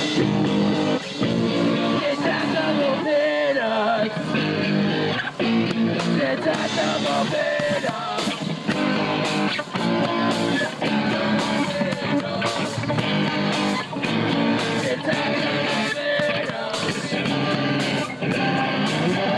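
Punk rock band playing live, with electric guitar and drums and a voice singing.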